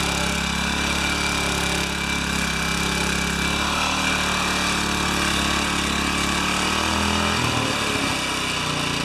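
Small gasoline engine of a garden power tool running steadily, its note shifting about seven seconds in.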